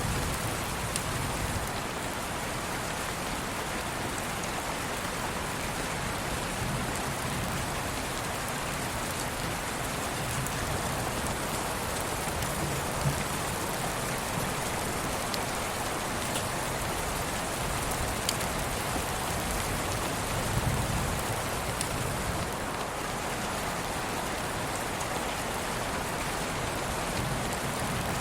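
Steady rain, an even hiss with a few faint ticks scattered through it.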